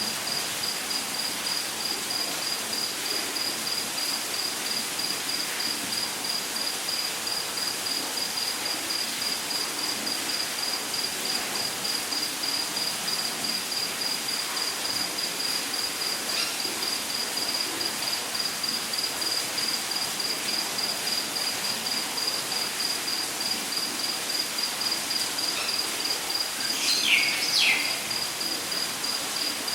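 Rainforest insect chirping in a steady, rapid, even pulse, high-pitched, over a constant hiss of background noise. Near the end a bird gives two short, sweeping calls, the loudest sounds here.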